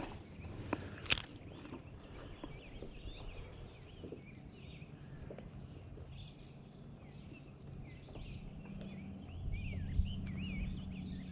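Songbirds chirping and whistling, many short rising and falling notes, with a couple of sharp clicks about a second in. A low steady hum swells near the end.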